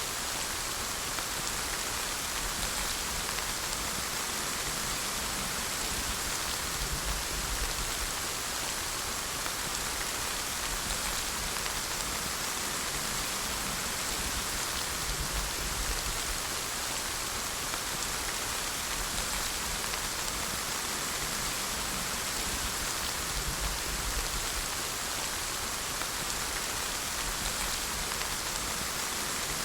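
Steady rain falling, an even hiss of many drops with no thunder or other sounds.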